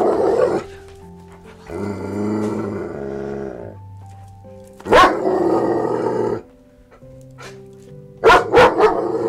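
Dog barking in separate bursts: at the start, about five seconds in, and twice in quick succession near the end. Background music plays under the barks.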